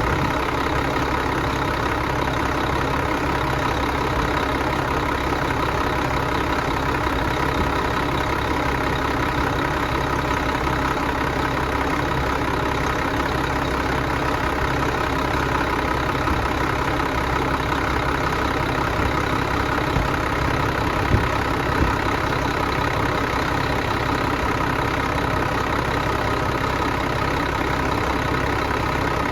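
Engine running steadily and evenly, with two brief sharp knocks about two-thirds of the way through.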